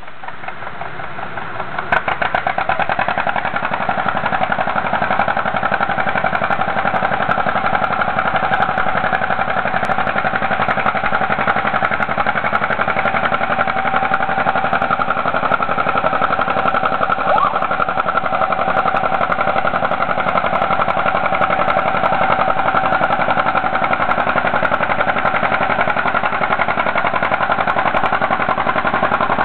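John Deere Model A two-cylinder tractor engine running with its popping exhaust. It builds up over the first two seconds and then runs steadily.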